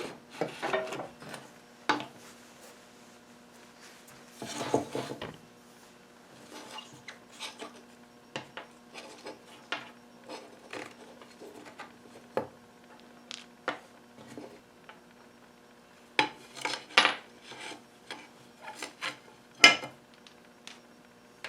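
Scattered small clicks, taps and knocks of wooden and metal pump organ parts being handled and worked on, with a longer scraping rub about five seconds in and a quick cluster of knocks past the middle. A faint steady hum runs underneath.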